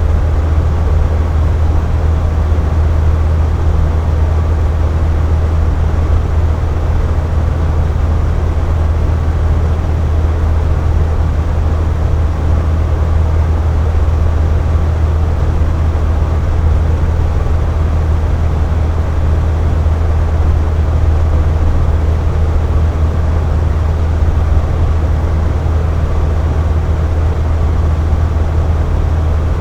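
Air conditioner running with a steady low hum and an even rush of air, unchanging throughout.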